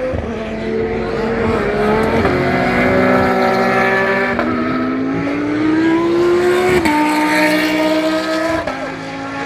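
GT race car engines under hard acceleration, their pitch climbing and then dropping sharply at each gear change, about five shifts in all.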